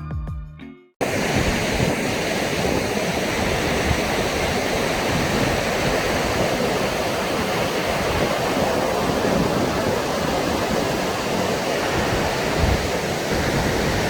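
A music track ends about a second in, then a steady, even rushing noise runs on.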